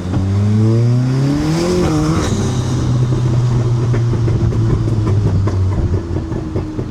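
Mk7 Golf GTI's turbocharged 2.0-litre four-cylinder accelerating hard through an ARM 4.5-inch downpipe exhaust. Revs rise for about two seconds, there is a shift with a short hiss, and then it runs at steadier revs with a rapid crackle in the exhaust note.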